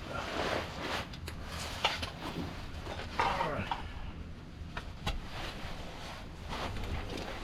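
Metal tools and car parts being handled: a few sharp clicks and clinks with short bursts of scraping or rubbing between them.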